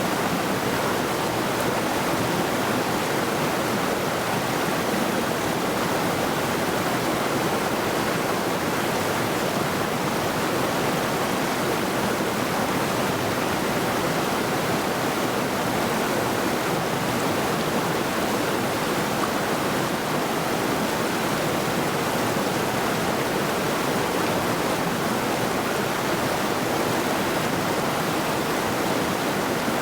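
Mountain river rushing over rocks, a steady even rush of flowing water with no change throughout.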